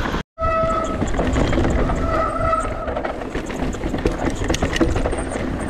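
Mountain bike descending a rocky trail: tyres and frame rattling over rock, with wind on the helmet microphone. The sound cuts out for an instant about a quarter second in, and two brief steady whines come through, once right after that and again about two seconds in.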